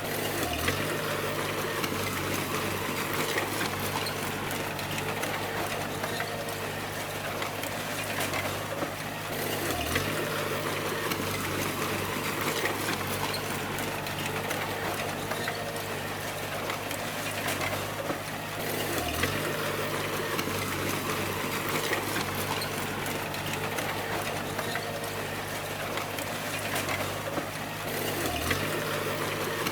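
Bulldozer diesel engine running steadily, its pitch dipping briefly and recovering about every nine seconds.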